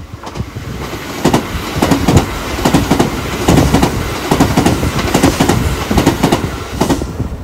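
Tobu 70000 series electric commuter train passing close at speed. Its wheels run on the rails with a steady noise and a rhythmic clickety-clack as the bogies cross the rail joints. The noise fades near the end as the last car goes by.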